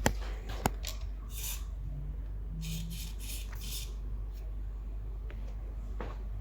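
Two sharp clicks, then an aerosol can spraying in short hissing bursts, the second a quick run of about four puffs: penetrating lubricant being sprayed at the e-bike's bottom bracket where the plastic pedal-sensor disc squeaks against the metal shell.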